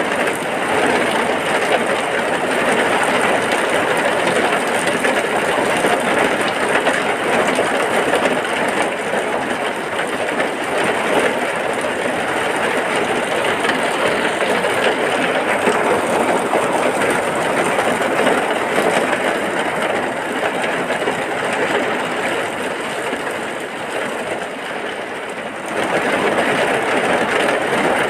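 Heavy rain falling in a steady downpour, an even hiss of dense drops. It eases slightly for a couple of seconds near the end, then picks back up.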